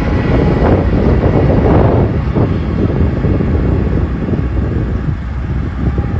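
A BNSF GE C44-9W diesel-electric locomotive passes close by with its engine running, followed by the wheels of its double-stack container cars on the rails. The sound is a loud, steady, low rumble.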